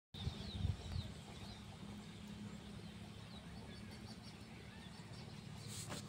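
Faint bird chirps over a low, steady outdoor hum.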